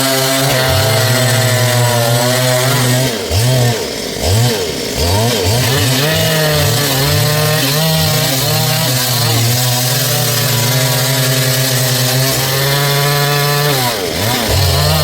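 Stihl MS 382 two-stroke chainsaw running at full throttle while cutting a dry log. Its pitch drops and climbs again several times about three to six seconds in, and dips once more near the end.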